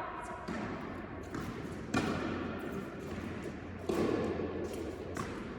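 Tennis ball struck by rackets and bouncing on an indoor hard court during a rally: five sharp hits at irregular gaps of about one to two seconds, each ringing on in the hall.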